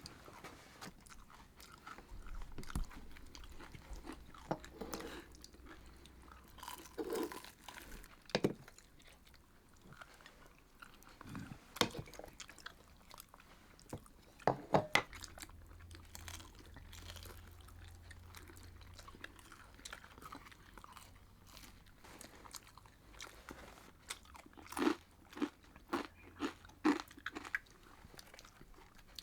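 Crisp food being bitten and chewed: scattered crunches, with a quick run of them near the end.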